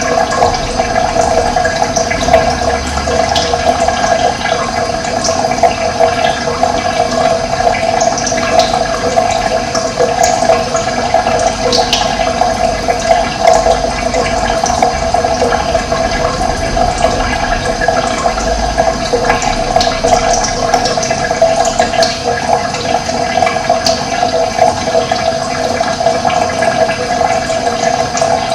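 Running water flowing steadily with a loud, even rush. A few short high chirps, birds, come and go over it.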